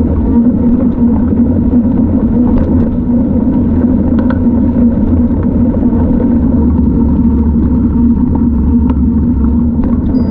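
Loud steady low rumble of a bike ride in motion, with a few faint clicks scattered through it.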